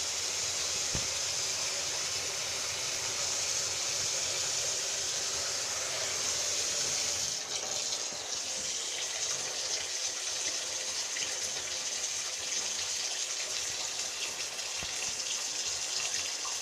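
Water running steadily from a tap into a sink, an even hissing stream whose sound shifts slightly about seven seconds in.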